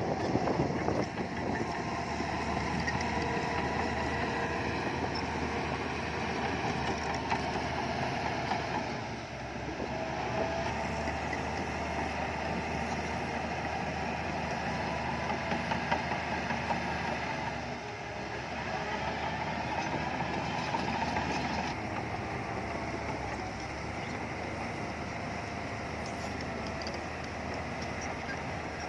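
Diesel engine of heavy earthmoving machinery running under load, its sound swelling and easing, with short dips about nine seconds in and again near eighteen seconds.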